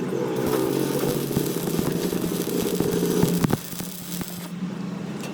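A machine running with a dense, rapid crackle, dropping to a quieter steady hum about three and a half seconds in.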